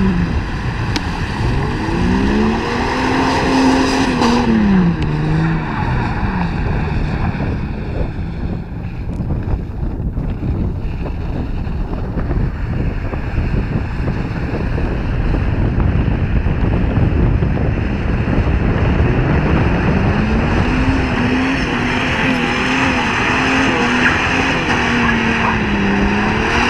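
A car engine revving up and held at high revs while drifting on a wet road, then falling away after about five seconds. A steady rushing noise fills the middle, and the engine climbs back to high revs about two-thirds of the way through and stays there.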